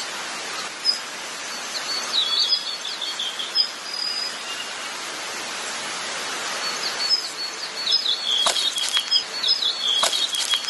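Small birds chirping and twittering over a steady outdoor hiss, with a few sharp clicks near the end.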